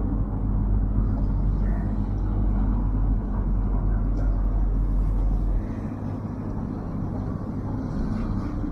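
Ferry's diesel engine running with a steady low drone, dropping noticeably lower about two-thirds of the way through.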